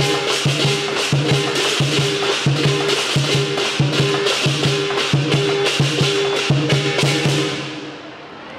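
Lion dance percussion music: drum and cymbals beating a steady rhythm of about two strokes a second, fading out near the end.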